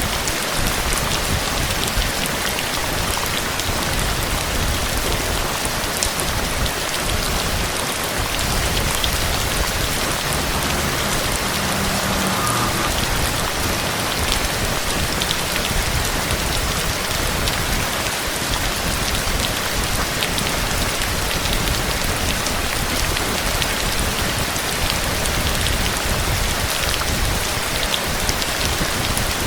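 Heavy, steady rain pattering on a surface, a dense hiss with many fine drop ticks.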